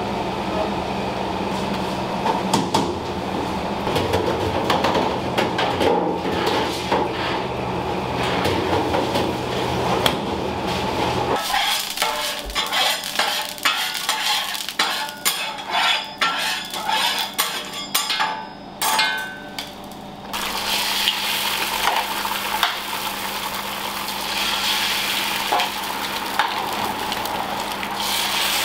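A steady low rumble with some clatter. A sudden change about a third of the way in leads to quick clinks and clatter of metal utensils and dishes. From about two-thirds in, food frying in hot oil with a steady loud sizzle.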